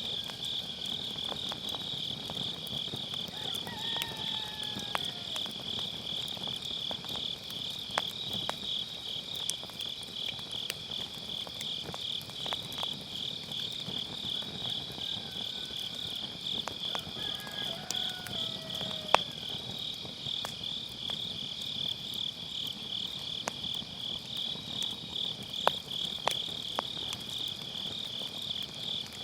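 Autumn-night grass insects such as crickets chirping in a steady, fast-pulsing trill, over a wood fire in a fire pit giving off occasional sharp pops and crackles.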